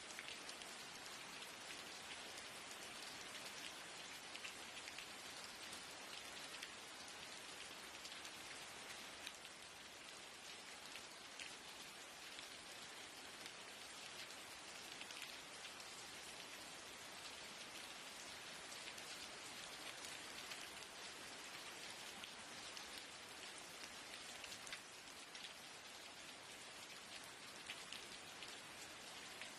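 Steady rain falling: an even hiss with a dense patter of individual drops, keeping up without pause.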